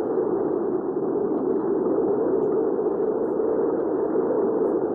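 Steady hurricane-wind ambience: an even, dull rush of wind with no sharp hiss on top and no single gust standing out.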